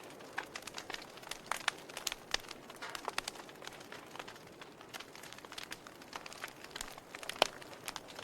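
Wood fire crackling in a fireplace: irregular snaps and pops of burning logs over a soft hiss, with one louder pop near the end.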